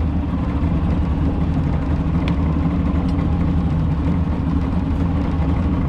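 90 HP Johnson outboard motor running steadily under way, a constant low engine rumble.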